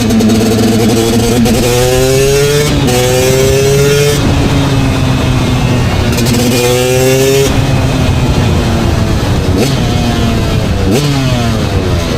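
KTM 250 two-stroke motorcycle engine accelerating. Its pitch climbs, drops sharply at a gear change and climbs again; this happens twice. After that the engine slows, with the pitch falling toward idle near the end.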